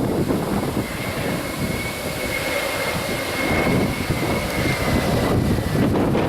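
Jet airliner passing close, its engines giving a loud rumble with a thin high turbine whine that sinks slightly in pitch, with wind buffeting the microphone.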